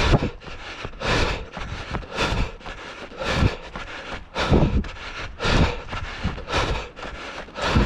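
A trail runner on the move, heard as a rhythmic burst of noise about once a second, with wind on the microphone.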